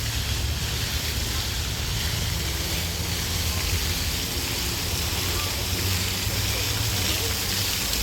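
Water fountain splashing steadily, a continuous hiss of falling water over a low rumble.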